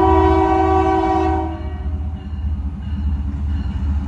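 Diesel freight locomotive sounding its multi-tone air horn in one long blast that cuts off about a second and a half in, over the steady low rumble of the locomotive and train passing.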